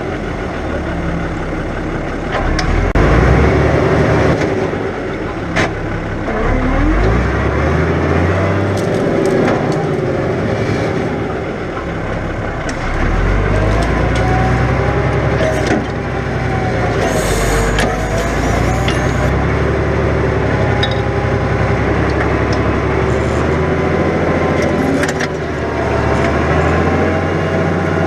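New Holland 100-90 tractor's diesel engine working hard under load while ploughing heavy, wet ground, its engine speed rising and falling. A few short knocks come through over the engine.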